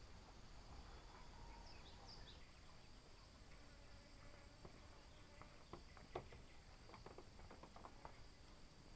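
Near silence with a faint, steady, high-pitched insect drone throughout, and a few soft clicks and taps in the second half.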